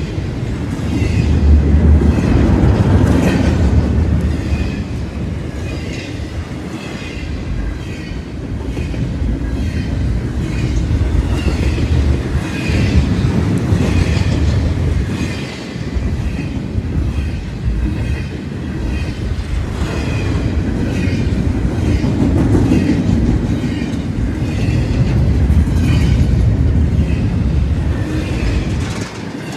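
A train rolling past at track level, with a continuous heavy rumble and steady clickety-clack of wheels over rail joints, swelling louder a few times as it goes by.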